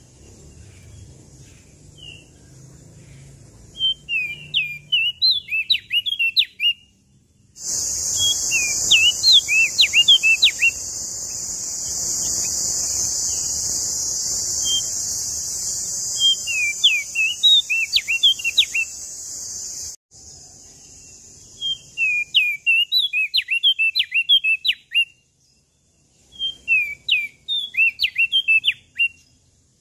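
Crested white-eye (opior jambul, prenjak daun) singing in repeated short phrases of rapid, swooping, chirpy notes, with pauses between them. A loud, steady high-pitched hiss starts abruptly about eight seconds in and cuts off sharply about twelve seconds later.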